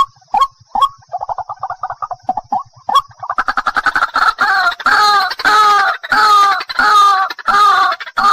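White-breasted waterhen calling. It opens with short clipped notes, breaks into a fast chatter, and from about three seconds in gives a run of loud repeated 'ruak-ruak' calls, about two a second.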